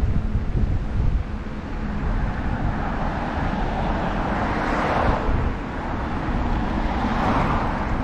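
Steady low wind rumble on the microphone of a moving bicycle, with two vehicles passing: a swelling and fading rush of tyre and engine noise about halfway through and another near the end.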